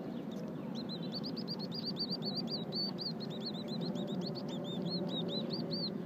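Ducklings peeping: a rapid run of short, high, arched peeps starting about a second in, several a second, over a steady low background rumble.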